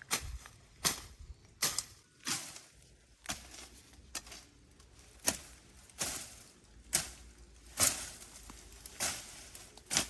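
A steady series of sharp knocks, a little over one a second, each with a short trailing decay.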